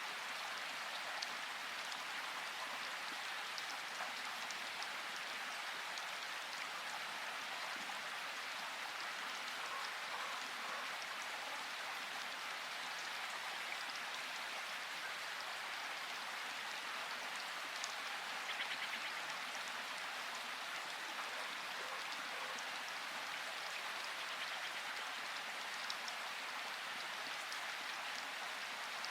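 Steady rain falling, an even hiss with scattered sharper drip ticks and a brief flurry of them about eighteen seconds in.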